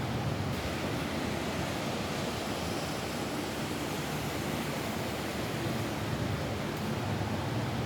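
Steady rain falling on a roof: an even, unbroken hiss with a low rumble underneath.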